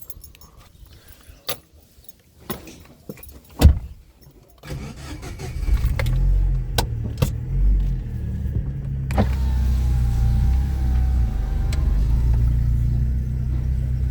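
A few clicks and a sharp knock, then a car's low engine rumble builds up about five seconds in and runs on steadily as the car gets under way.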